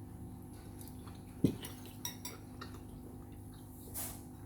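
Cutlery clinking and tapping against a plate while eating: a few light clicks, with one louder knock about one and a half seconds in.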